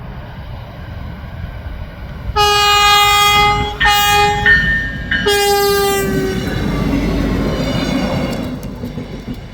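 River LINE train's horn sounds a long, a short and a long blast, completing the long-long-short-long crossing signal. The train then rumbles past close by, the noise swelling and then fading near the end.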